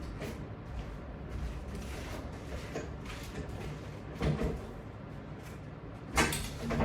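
Exercise equipment being moved and set in place: low rustling and shuffling, a knock about four seconds in and a louder clack near the end.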